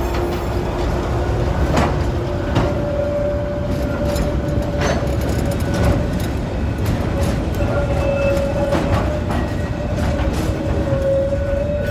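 A cement train running on the rails: a steady heavy rumble with irregular sharp clicks from the wheels. A steady high whine comes in about three seconds in.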